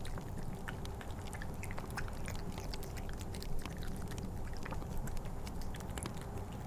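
A Bengal cat eating wet cat food in gravy, making many short, wet chewing and lapping clicks. Underneath runs a steady low wind rumble with the crackle of a fire.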